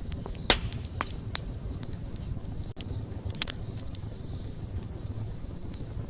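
Wood fire burning with a low steady rumble and sharp, scattered crackles and pops of the burning wood; the loudest pop comes about half a second in, with a few more over the next three seconds.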